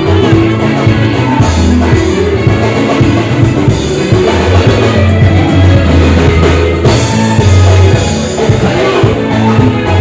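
Live band music: a drum kit and a heavy bass line with guitar, played loud.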